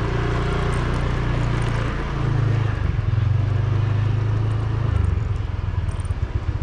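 Small motorbike engine running at low speed, its pitch shifting up and down a few times, then settling into an even, low chug near the end.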